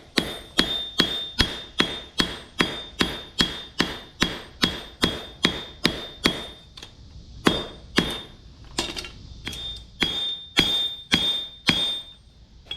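Blacksmith's hammer striking a railroad spike being forged into an axe head on an anvil, about two blows a second, with a short pause about two-thirds of the way through. Each blow leaves a brief high ring.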